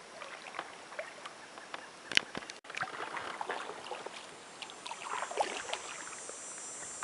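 Canoe paddle strokes in calm river water: soft splashes and drips, with one sharp knock about two seconds in.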